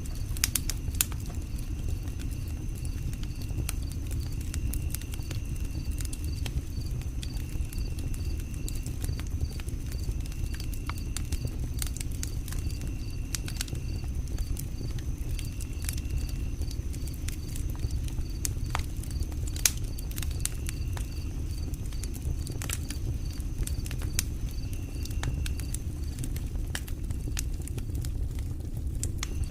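Campfire crackling, with frequent sharp pops over a low steady rumble. A high chirp repeats about twice a second, and a higher trill comes and goes in stretches of a second or two.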